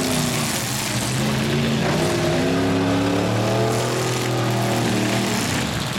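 Demolition derby truck engines revving, their pitch rising and falling, over a steady wash of noise.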